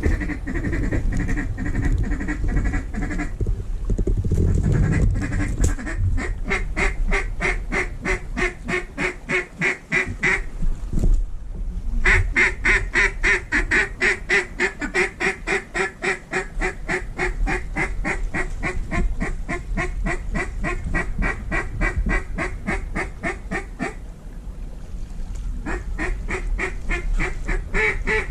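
Duck quacking in a rapid, even run of about five quacks a second, with a short break about eleven seconds in.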